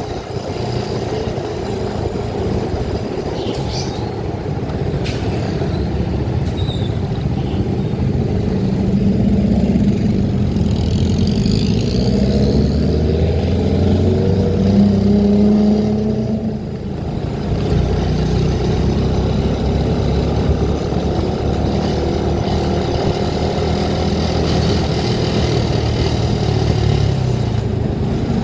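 Engine and road noise from a vehicle being driven. The engine note shifts up and down through the middle, and the sound dips briefly about two-thirds of the way through.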